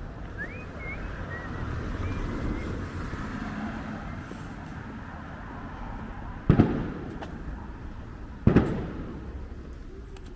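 Two firework bangs about two seconds apart, each followed by an echoing tail, over a low background of street noise.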